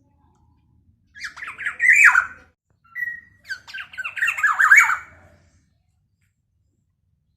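Black-naped oriole (kepodang) calling loudly in two runs of rapid, harsh notes, each about a second and a half long; the second run is introduced by a short clear whistle.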